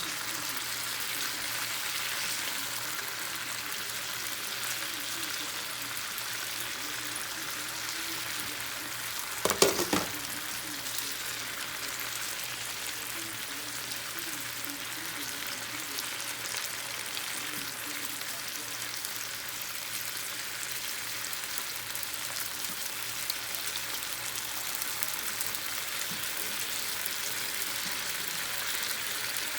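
Thin slices of chicken frying in a pan, a steady sizzle. There is one sharp clatter a little under ten seconds in.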